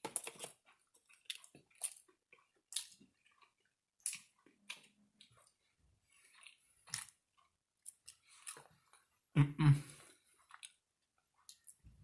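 A person chewing crispy fried chicken close to the microphone, with irregular crunches about a second apart. About nine and a half seconds in comes one short, louder vocal noise from the eater.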